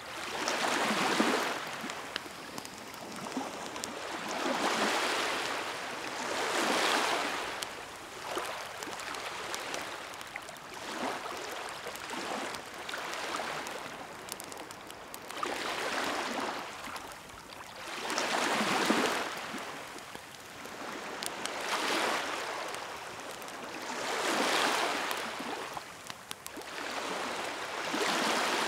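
Sea waves washing onto the shore in slow swells every few seconds, with a wood bonfire crackling throughout.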